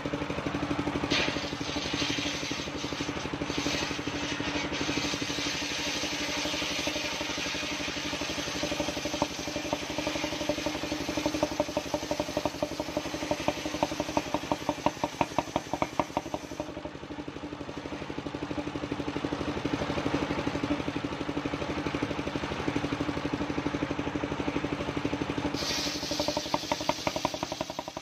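Engine of a mobile circular sawmill running steadily, with the saw blade hissing as it cuts through old coconut-palm wood from about a second in. The cutting hiss drops away for several seconds after the middle, leaving the engine alone, and comes back near the end.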